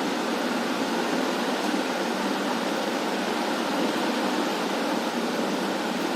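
Steady rushing noise of water circulating in an aquarium, unbroken and even throughout.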